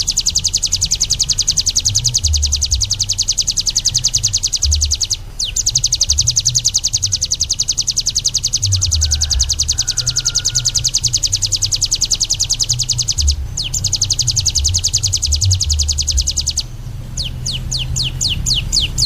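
A songbird singing a very fast, even, high-pitched trill of repeated notes, broken by two brief pauses; about two seconds before the end it changes to slower, separate falling whistles. A low, uneven pulsing sits underneath.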